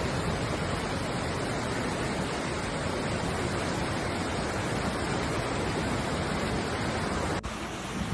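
Floodwater rushing past in a steady, noisy roar of fast-flowing water. It drops off abruptly near the end.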